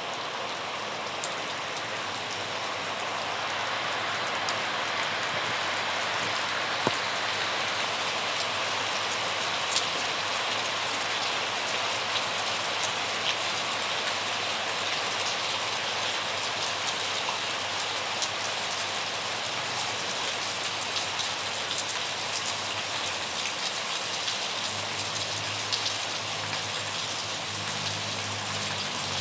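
Steady rain falling, an even hiss with scattered louder drops ticking through it. A low hum comes in near the end.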